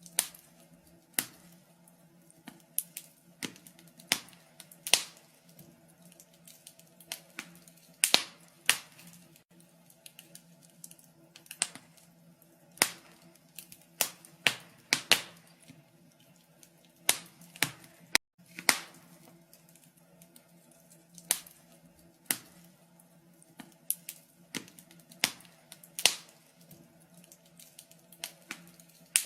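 Wood fire crackling in a fireplace: irregular sharp pops and snaps, about one or two a second, over a faint steady low hum.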